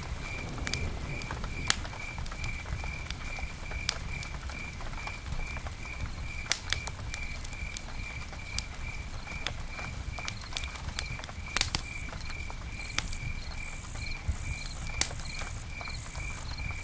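Campfire burning, with sharp irregular crackles and pops over a low rumble. A steady chirp pulses about three times a second in the background, and a higher, buzzier chirping joins near the end.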